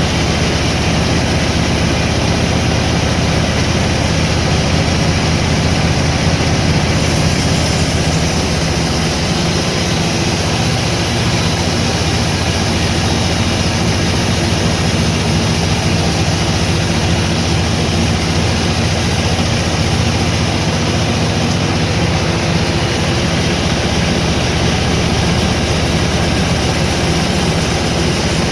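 Sawmill machinery running steadily: a low engine hum under a constant noisy whir, with no break or change.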